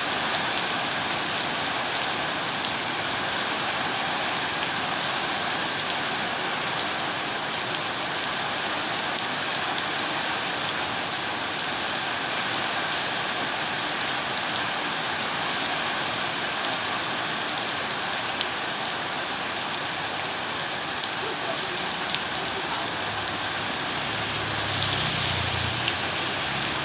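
Steady rain falling, an even hiss with scattered faint drop ticks. A low rumble comes in near the end.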